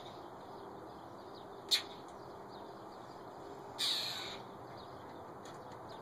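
A bird giving a short, sharp high call and then, about four seconds in, a louder, longer harsh call, with faint chirping in the background.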